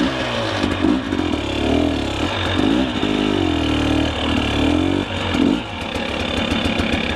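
Two-stroke enduro dirt bike engine revving up and down again and again under the throttle, dipping briefly around five seconds in.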